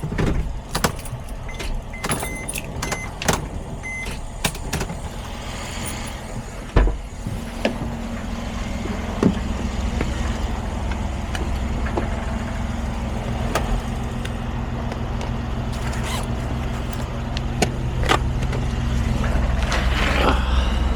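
Mercedes Sprinter's 3.0 L V6 diesel (OM642) running. Clicks and a few short beeps from the cab come first, then a thump about seven seconds in, after which the engine's steady hum grows louder toward the end.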